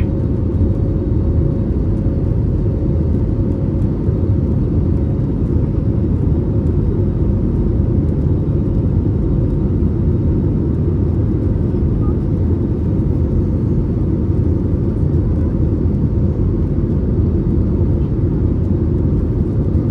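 Steady low rumble of an Airbus A321neo airliner heard from inside the passenger cabin: engine and airflow noise with no changes in level. A faint steady hum in it fades out about six seconds in.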